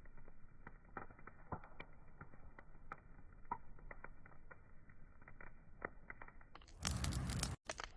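Wood fire crackling with irregular small sharp pops. Near the end a much louder burst of hiss lasts about a second, with a brief drop to silence inside it.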